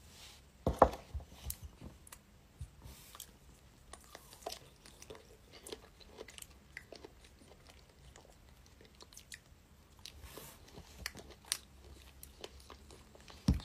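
Quiet chewing and biting of fresh strawberries by a woman and a baby monkey, heard as small, irregular wet clicks and smacks. A sharper click comes about a second in.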